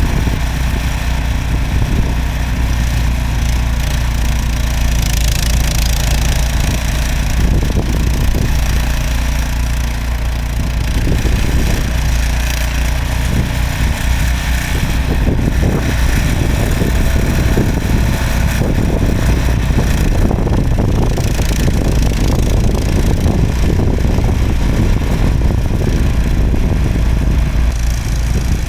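Snowblower engine running steadily under way.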